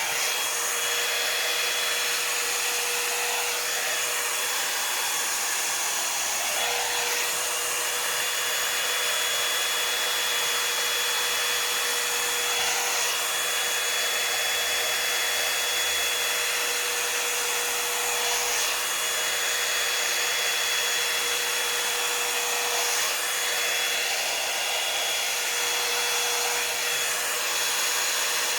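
Revlon One-Step hair dryer brush running steadily: a rush of air with a motor whine, shifting slightly every few seconds.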